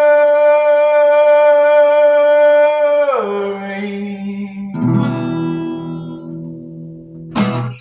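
Closing bars of an acoustic guitar and voice song: a long held sung note slides down about three seconds in. Then a final guitar strum rings out and fades, and a short thump stops it near the end.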